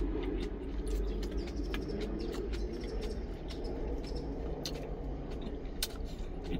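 Close chewing with scattered wet mouth clicks as a mouthful of food is eaten, and a wooden spoon scooping food from a stainless steel container near the end, over a steady low hum.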